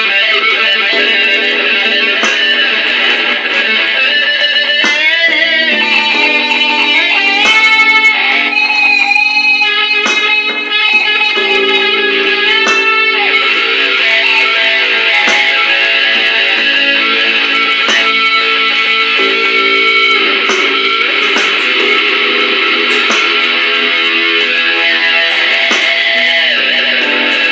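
Electric guitar played through a DigiTech effects unit, a blues in three: single-note lead lines with string bends, moving to fuller, chordal playing in the second half.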